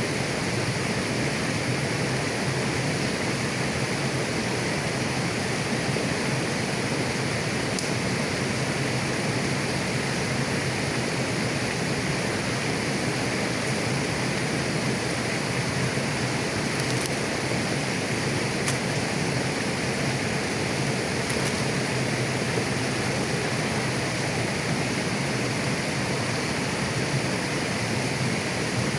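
Clear mountain river running over rocks: a steady, even rush of flowing water.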